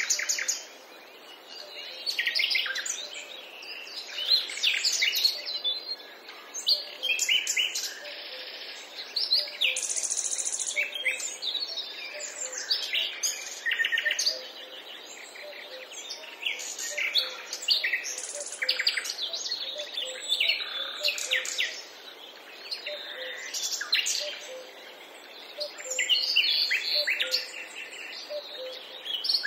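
Forest birds chirping and calling, many short high notes and trills overlapping and coming in bursts, over a faint steady background hiss.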